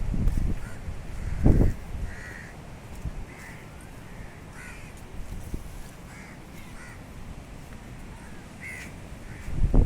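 Crows cawing repeatedly in short calls throughout. Loud low rumbles come at the start, about a second and a half in, and again at the end.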